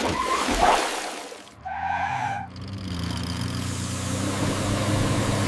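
Vehicle engine sound effect: a short skidding, sliding noise early on, a brief held horn-like tone about two seconds in, then an engine running steadily and slowly rising in pitch.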